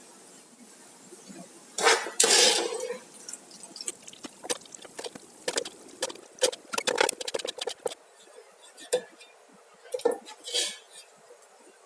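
Kitchen clatter: dishes and utensils clinking and knocking in a string of short, irregular strikes, with a louder rush of noise about two seconds in.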